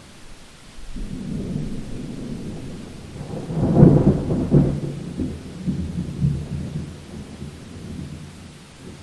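Thunder rumbling over steady rain: a low roll builds about a second in, cracks loudest around four seconds, then rolls away in diminishing waves.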